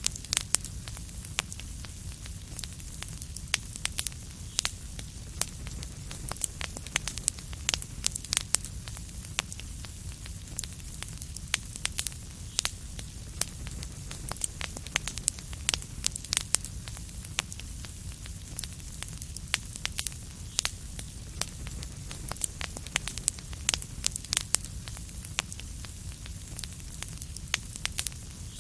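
Wood fire crackling in a fireplace: a dense, irregular stream of sharp pops and snaps over a steady low rumble.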